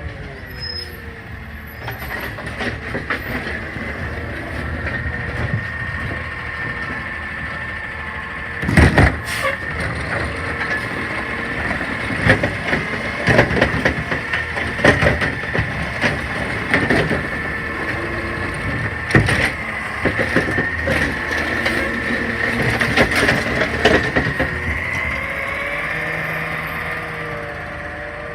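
CNG automated side-loader garbage truck running with a steady high whine. For most of the middle of the stretch it gives a series of hard knocks and bangs, the loudest about nine seconds in, then settles back to a steady run.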